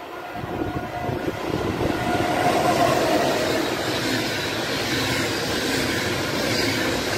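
Electric-hauled Intercity passenger train passing at speed. The noise builds over the first two seconds as the locomotive arrives, then holds as a steady rush of wheels on rail while the coaches go by.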